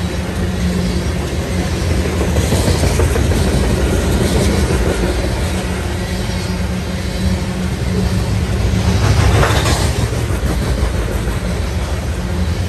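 Coal hopper cars of a freight train rolling past, their wheels rumbling and clattering over the rail joints. The sound grows briefly louder and harsher about nine seconds in.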